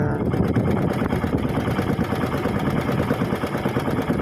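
Small boat's engine running steadily, a fast even chugging.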